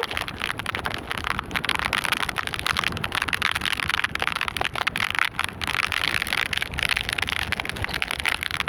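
Heavy tropical storm rain, a dense crackle of drops striking close to the microphone, over the steady low rumble of gusting wind on the microphone.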